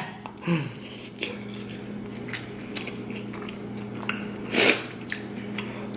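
A man chewing a mouthful of hot Cheetos noodles, with faint wet mouth clicks and one louder short sound about four and a half seconds in, over a steady low hum.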